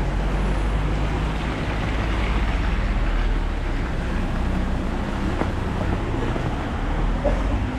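Road traffic in the rain: a car engine running close by with a low steady hum, over a continuous hiss of rain.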